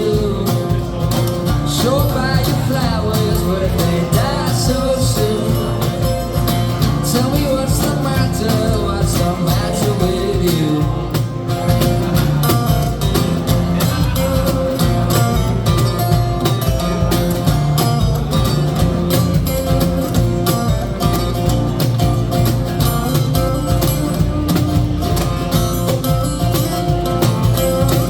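A rock band playing live, an instrumental stretch of the song with electric guitars, bass and a steady drum beat.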